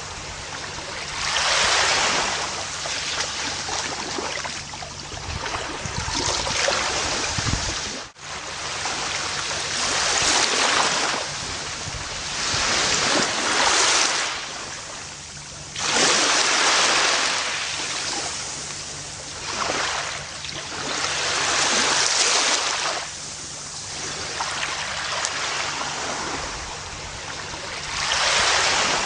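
Gentle ocean waves breaking and washing up a beach, each surge swelling and fading every few seconds. The sound drops out very briefly about eight seconds in.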